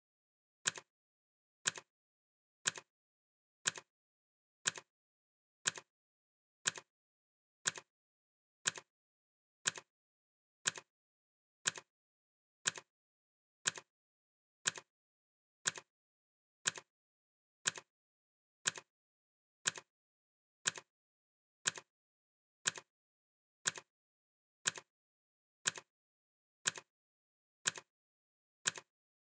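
Clock ticking at an even, steady pace, each tick a short sharp click, alternating louder and softer like a tick-tock.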